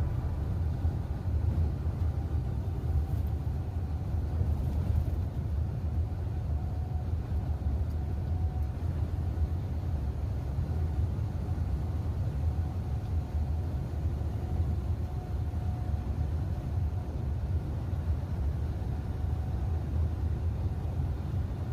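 Steady low rumble of a moving truck on the road, engine and road noise heard from inside the cab, with a faint thin whine coming and going.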